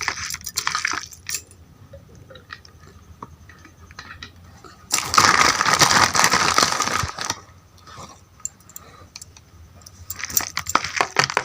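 Kitchen handling sounds as chicken is mixed in a wet spice, flour and vinegar marinade: squishing and small clicks, with a louder noisy stretch of about two seconds in the middle.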